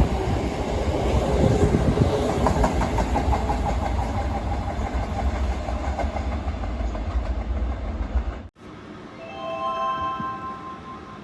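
Toei 5300-series commuter train pulling out and running past: a loud rumble of wheels with clickety-clack over the rail joints, which cuts off abruptly about eight and a half seconds in. Then a short electronic chime of a few steady tones sounds.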